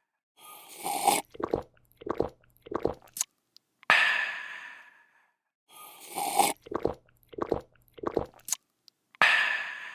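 A person slurping a drink, gulping three times, then letting out a breathy, refreshed "aah". The sequence plays twice.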